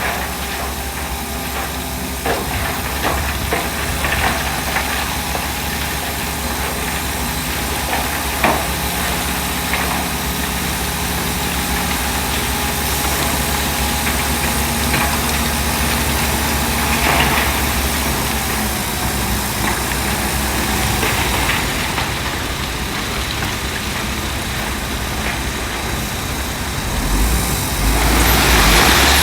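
Heavy diesel engine of earthmoving machinery running steadily, with a few sharp knocks. The clearest knock comes about eight seconds in, and the engine swells louder near the end.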